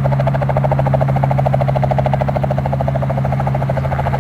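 Helicopter running in flight: a steady low hum under a fast, even beating from the rotor blades.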